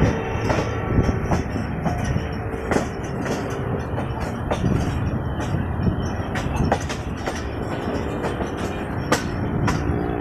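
Passenger train running along the track, heard from on board: a steady rumble of the wheels on the rails with irregular clicks and knocks from the track.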